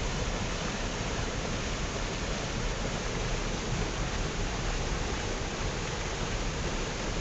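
Rushing water making a steady, even noise with no surges or breaks.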